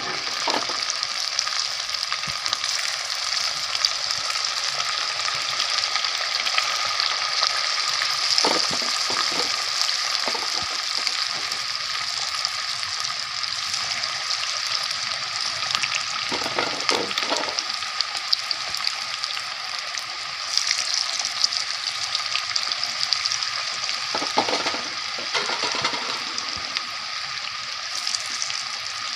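Chicken pakoda deep-frying in hot oil in a kadai: a steady, loud sizzle with crackling, and a few brief clinks or scrapes as the fritters are stirred.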